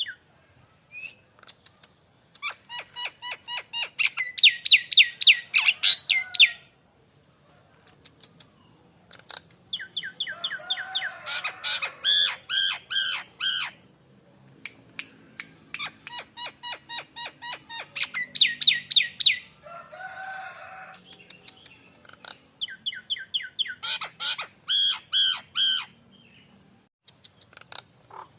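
Nias hill myna singing in full voice: bursts of quick, loud repeated notes, each burst lasting two to four seconds, with short pauses between them.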